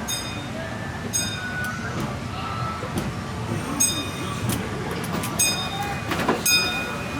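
Disneyland Railroad passenger train rumbling along, with short high-pitched metallic rings or squeals sounding several times at irregular intervals, the loudest near the end.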